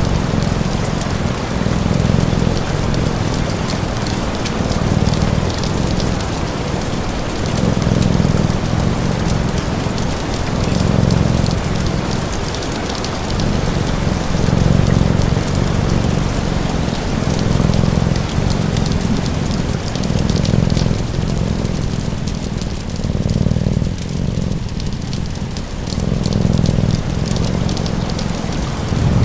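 Steady rain with fine crackling from a wood fire, and a cat's low purr swelling and fading every two to three seconds with its breaths.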